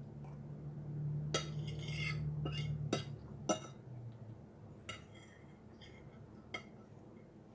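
Cutlery clinking against a plate during a meal: a handful of sharp, separate clinks, most of them bunched in the first few seconds, then two more spaced out near the end.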